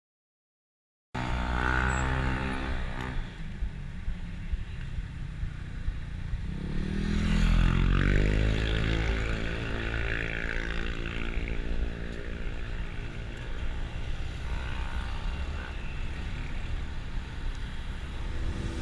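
Motor vehicle engine running over a low wind rumble, starting about a second in; its pitch rises as it speeds up around six seconds in, then holds steady.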